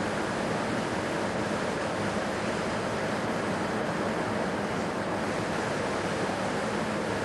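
Steady, even rushing noise with no distinct events, of the wind-or-surf kind.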